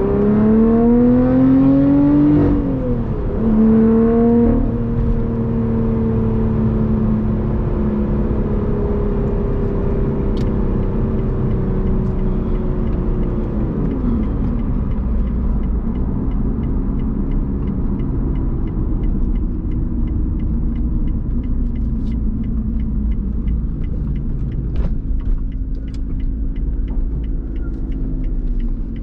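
Lotus Evora GT's supercharged 3.5-litre V6 through a titanium exhaust, accelerating with rising pitch and then cut short by a gear change about two seconds in. It then pulls steadily, the pitch falling away a little past the midpoint as the car slows, and settles into a low rumble. Faint regular ticking runs through the second half.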